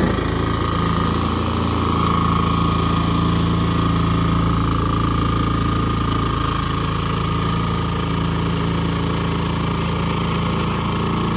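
Engine of a remote-control lawn mower running steadily, with a steady higher whine over the engine note.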